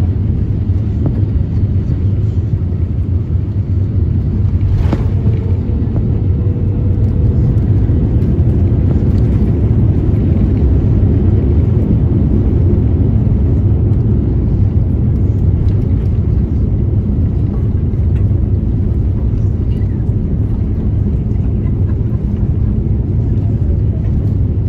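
Steady low rumble inside the cabin of an Airbus A350-1000 on the ground just after landing, with a single sharp click about five seconds in.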